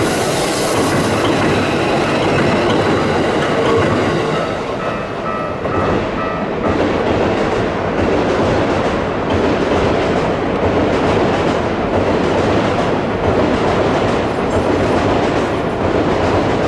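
Keikyu 1500 series electric train running past on its rails, loud and steady throughout.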